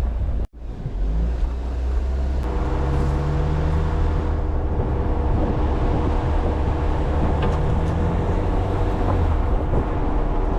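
Jeep Wrangler engine running at low speed with a steady low rumble as it drives a rough, rutted forest track. The sound cuts out briefly about half a second in. A few steady tones come in about two and a half seconds in.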